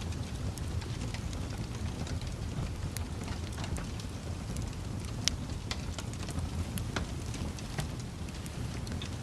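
Wood fire burning in a fireplace: a low steady rumble of flames with scattered sharp crackles and pops from the logs, one louder pop about five seconds in.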